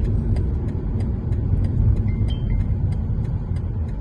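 Road noise inside a moving car: a steady low rumble of engine and tyres, with a faint regular ticking about three times a second.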